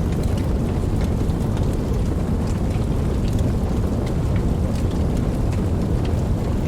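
Steady rain: a dense, even wash weighted toward the low end, with many separate drop ticks scattered over it.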